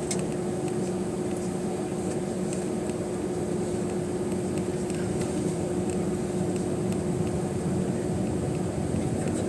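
Steady cabin drone of an Airbus A320-212 heard from a rear seat, from its two CFM International CFM56-5A3 turbofan engines and the airflow, with a constant low hum and a faint high whine.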